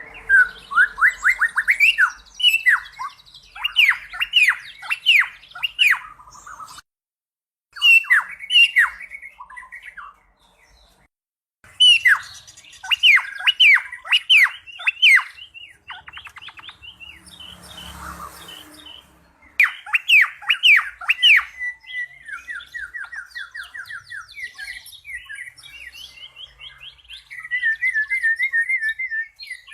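A cucak pantai singing: bursts of rapid, loud notes that each sweep downward, phrase after phrase with short pauses between them. A brief rustling noise comes about two-thirds of the way through.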